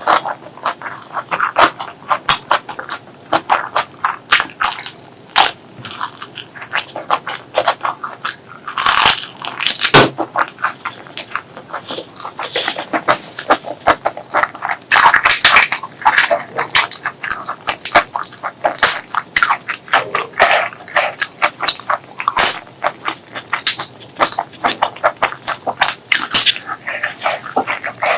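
Close-miked eating sounds: a person chewing and biting food with a dense run of wet mouth clicks and smacks.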